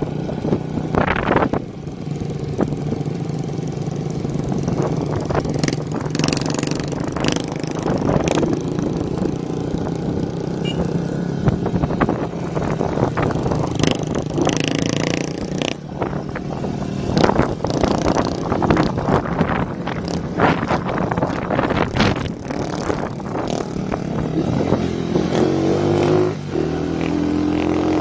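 Motorcycle running on an open, muffler-less exhaust while riding, with wind noise on the microphone and scattered sharp cracks. The engine pitch climbs near the end as it accelerates.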